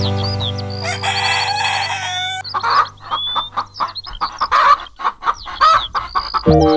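Chickens clucking in quick, short calls, with a rooster crowing about a second in. Background music fades out at the start and comes back in near the end.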